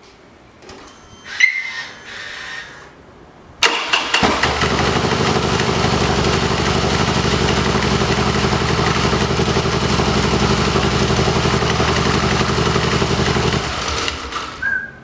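Harley-Davidson Dyna Big Twin V-twin started on its electric starter with no clatter from the starter compensator, which has just been replaced. It catches at once, idles steadily for about ten seconds and is switched off. Short mechanical noises come before the start.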